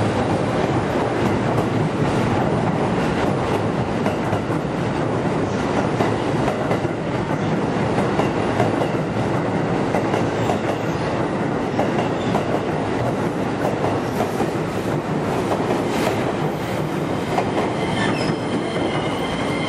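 Passenger train cars running steadily past on the station track, wheels clattering over the rail joints, with a faint high wheel squeal near the end.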